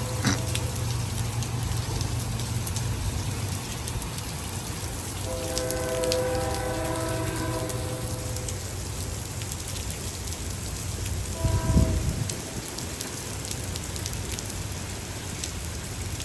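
Steady rain falling during a thunderstorm. A distant horn sounds a multi-note chord for about three seconds, starting about five seconds in, and briefly again near twelve seconds. A short low thump comes with the second blast and is the loudest moment.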